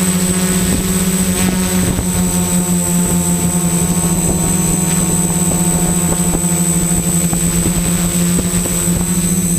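XAircraft X650 Pro V4 quadcopter's electric motors and propellers running at a steady pitch in flight, with a thin high whine above the hum and rough buffeting underneath.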